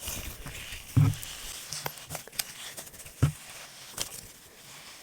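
Slime being squeezed and worked by hand close to the microphone: a run of small sticky clicks and crackles, with two louder, deeper pops about a second in and again past three seconds.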